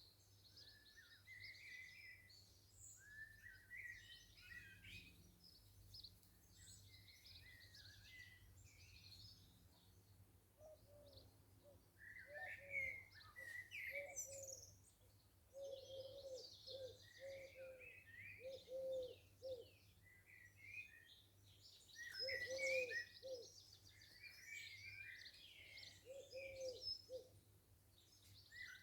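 Garden birds singing and chirping softly, several at once, with groups of low cooing notes joining in from about a third of the way in.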